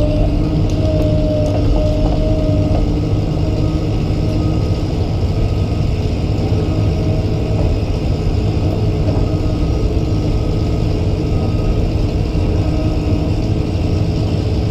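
Komatsu PC200 excavator's diesel engine running steadily, with a whining tone over it that drops away about three seconds in.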